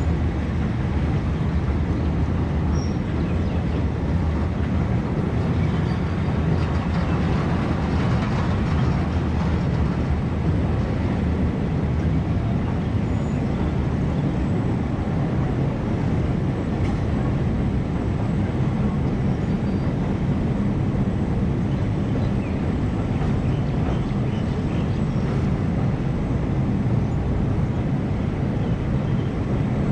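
Passenger train running along the track: a steady low rumble that holds an even level throughout.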